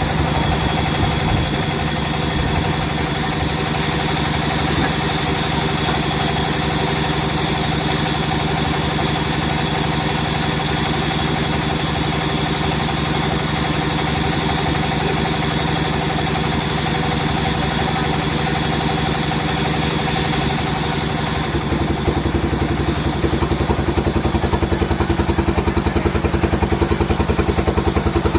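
Sawmill machinery running with a steady mechanical hum. About three quarters of the way through, the sound changes and becomes slightly louder with a rapid pulsing beat.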